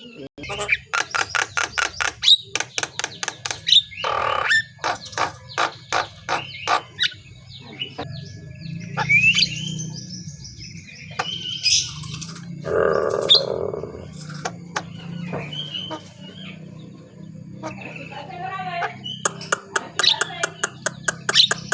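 Javan myna calling: fast rattling trains of clicks, sharp whistled notes that sweep up, and a harsh screech about halfway through, with warbling chatter near the end.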